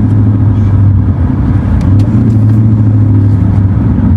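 Car engine running steadily under way: a loud, even low drone, heard from inside the car.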